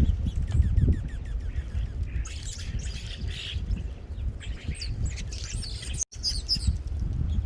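Birds calling: a quick run of short chirps in the first second, then harsh squawks about two seconds in and again near the end, over a steady low rumble.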